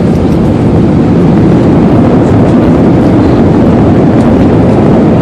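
Loud, steady rumble inside an Airbus A319's cabin during the landing rollout just after touchdown: the engines and the wheels on the runway as the jet slows, growing a little louder in the first couple of seconds.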